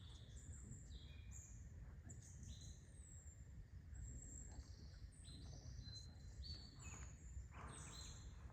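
Many small birds chirping, short high notes and little downward slides overlapping one another, over a faint low rumble.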